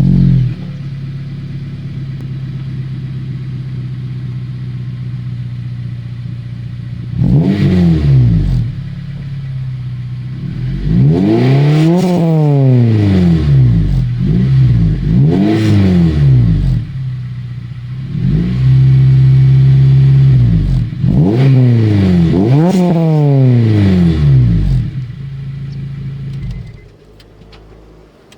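Honda Integra Type R DC5's 2.0-litre K20A four-cylinder through an all-titanium VeilSide Teardrop exhaust. It catches right at the start and idles steadily. From about seven seconds in it is blipped several times, each rev rising and falling, and once held at a higher speed for a couple of seconds. It then idles and is switched off a little before the end.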